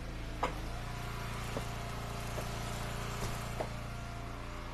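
An engine running steadily at idle, with several short, light knocks over it.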